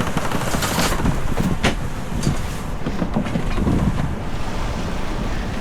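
Wind buffeting the microphone and the rush of the sea aboard a sailing yacht under way in strong trade winds, with a few short clicks in the first two seconds.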